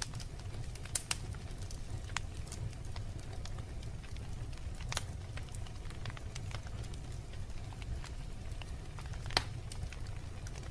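Wood fire burning in a fireplace: irregular crackles and small pops over a steady low rumble, with one sharper pop a little over nine seconds in.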